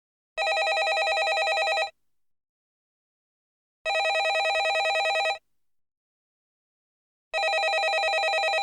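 Landline telephone bell ringing: three rings of about a second and a half each, spaced a couple of seconds apart, each ring a fast, even trill, with silence between rings.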